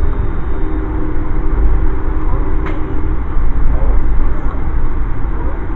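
Steady low rumble of a moving Amtrak passenger train heard from inside the car, with a faint hum that drops out about three seconds in and a single click partway through.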